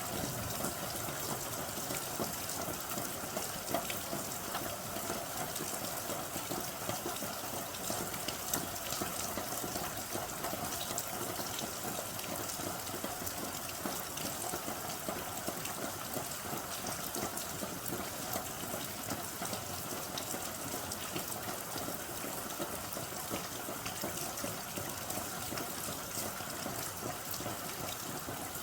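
Steady rain: a dense, even hiss of falling water with many small drop ticks scattered through it.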